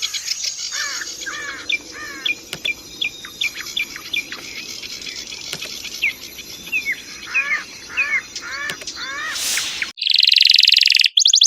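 Songbird calling: a series of short, sharp, hook-shaped chirps repeated in quick runs. About ten seconds in it cuts abruptly to a louder, very fast buzzing trill, the next recording in a spliced bird-song training compilation.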